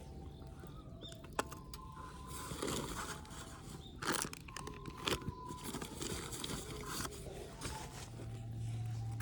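Scattered clicks and knocks with rustling, as of gear being handled, with faint short steady tones now and then and a low hum coming in near the end.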